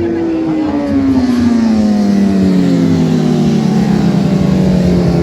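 Racing motorcycle engine running, its pitch falling slowly and steadily.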